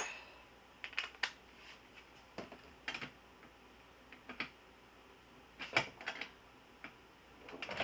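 Scattered short metallic clicks and knocks, about a dozen spread irregularly, from hand tools, bolts and steel seat brackets being handled while a car seat is loosened and fitted on its rails.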